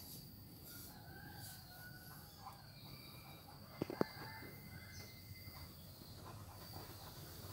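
Faint distant bird calls, short and scattered, with two sharp clicks about four seconds in.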